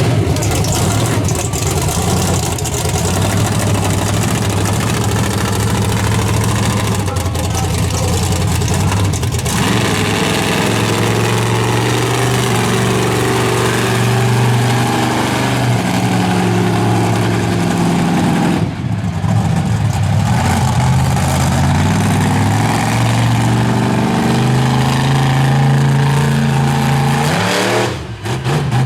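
Monster truck big-block engine revving hard, its pitch rising and falling again and again, with a couple of brief lifts off the throttle.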